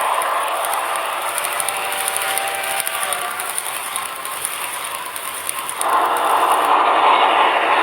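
Sound-equipped HO-scale model steam locomotives, a double-headed pair of Tenshodo Quantum C62s, running with their onboard steam sound. It is a steady hiss with fast fine ticking, and it swells louder about six seconds in.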